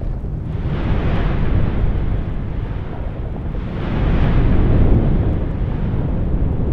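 Manaro Voui volcano erupting: a continuous deep rumble, with two louder rushing surges, one about a second in and another about four seconds in.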